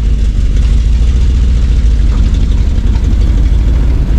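A truck engine idling: a steady low rumble.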